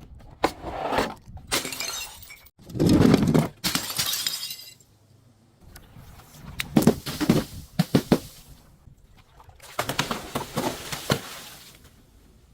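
Glass being smashed and crushed: sharp cracks and crunching shatters come in several separate bursts with short pauses between them.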